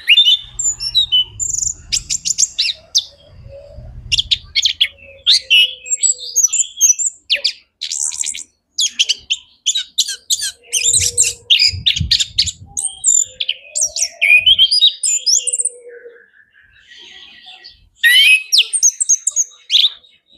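Male orange-headed thrush (anis kembang) singing a long, varied song of fast chattering phrases, rapid trills and sharp whistles, in bursts with a short pause near the end. A few low rumbles sound underneath at times.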